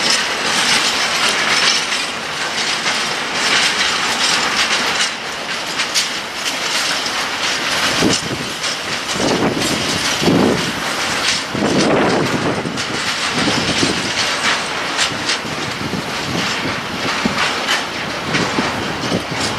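Freight train of empty flat wagons rolling through a station, the wheels clattering over rail joints and points in a steady run of clicks.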